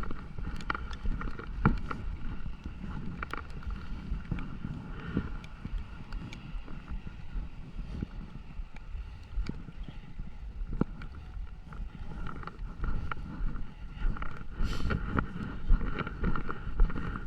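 Rain on a city street: a steady wet hiss with irregular sharp taps of drops.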